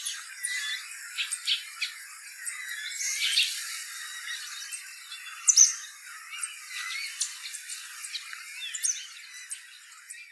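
Coots calling in a busy wetland chorus: many short, sharp calls and squawks overlapping, with one loud call about halfway through. The recording cuts off abruptly at the very end.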